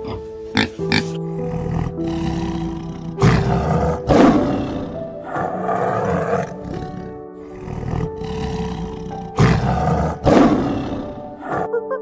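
A tiger roaring and growling in four loud bursts, two about three to four seconds in and two about nine to ten seconds in, over soft piano music.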